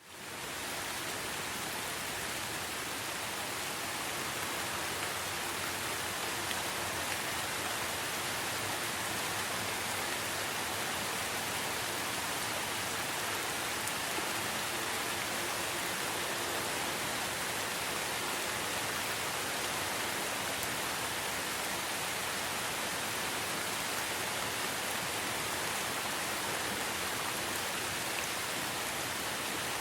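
Steady rain falling, a dense even hiss of many drops that comes back up out of a brief drop-out right at the start.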